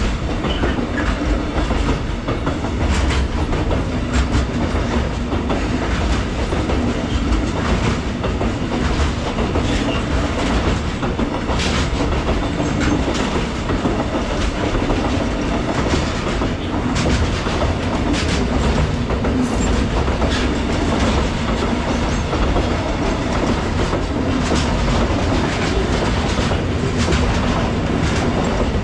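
Freight train wagons rolling past in a steady, continuous rumble, their wheels knocking over the rail joints at irregular intervals.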